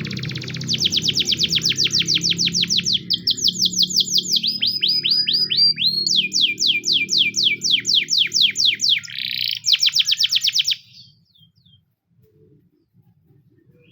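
Domestic canary of the Russian singing type singing rapid trills of repeated down-sweeping notes, about nine a second, switching to a new trill several times before stopping about eleven seconds in.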